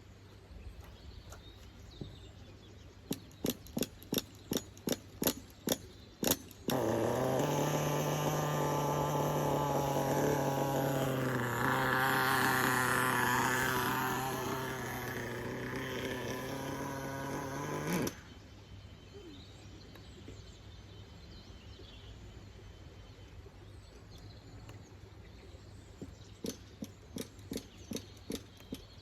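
Small nitro engine of a 1/10 scale RC truck being started. First a quick run of sharp clicks, about three a second. Then about eleven seconds of steady mechanical running, louder in the middle, which cuts off suddenly. A few more clicks come near the end.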